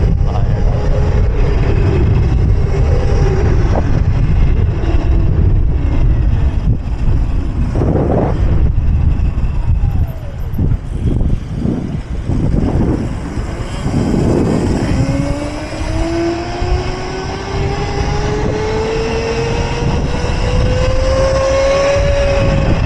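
Wind buffeting the microphone over road noise on a moving electric mini bike. From about 15 s in, a whine rises steadily in pitch as the bike speeds up.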